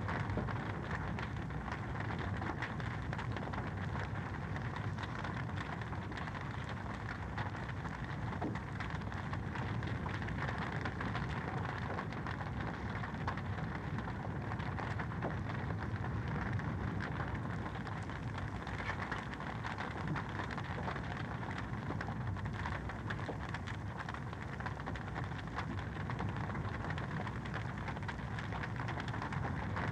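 Wood fire in a fireplace crackling steadily, a dense run of small pops and snaps over a constant hiss.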